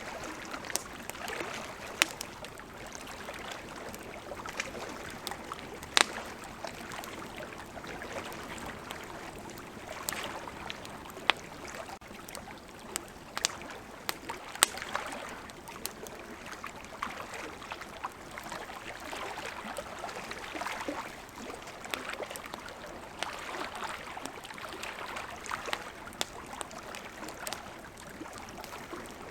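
Wood campfire crackling, with sharp pops every second or few, over the steady rush of a flowing river.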